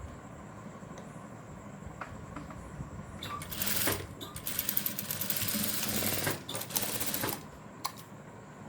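Sewing machine stitching in two short runs, starting about three seconds in with a brief pause near the end, sewing the folded extra piece of a blouse's back opening along the existing seam line.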